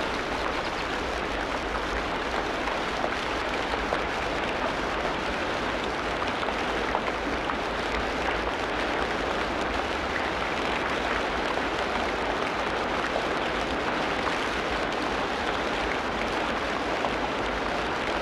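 Steady rain falling in a tropical rainforest: an even hiss with many small drop ticks, never letting up.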